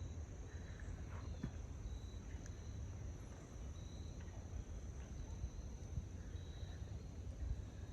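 Insects chirping in the background: a steady high trill with short, higher chirps repeating about once a second, over a low rumble.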